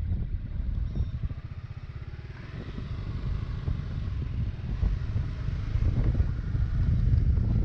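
Honda ADV350 scooter's single-cylinder engine running with an even beat, then rising in pitch and getting louder from about two seconds in as it picks up speed.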